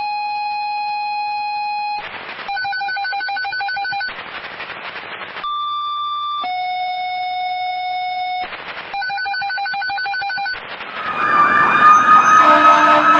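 Fire dispatch alert tones over a radio: a long steady tone, a lower steady tone, then a pulsing tone, with bursts of static between each set, played twice. About eleven seconds in, the fire engine's siren starts up, rising and then wavering, much louder than the tones.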